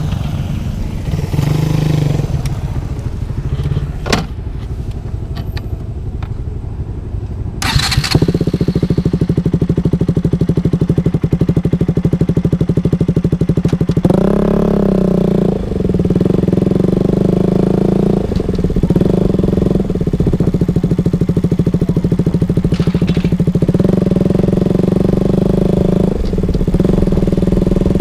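KTM RC single-cylinder engine breathing through an R9 aftermarket exhaust. It starts about a third of the way in, then idles with a steady, pulsing exhaust note. It gets one clear throttle blip, a rising and falling rev, midway, and a few lighter blips after.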